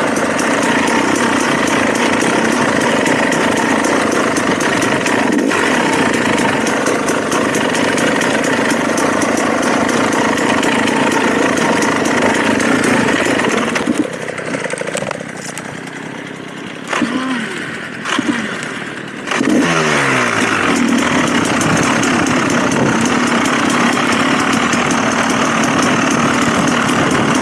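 Dirt bike engine running steadily on the trail. About halfway it drops back to a quieter low-revving stretch for several seconds, then revs up with a rising pitch and carries on running.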